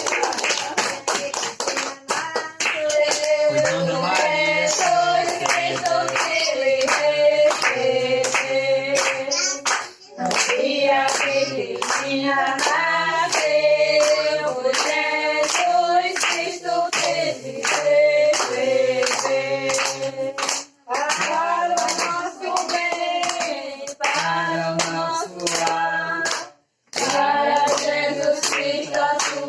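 A group of people singing a Portuguese gospel song together, clapping their hands in a steady beat, with a few short breaks between lines.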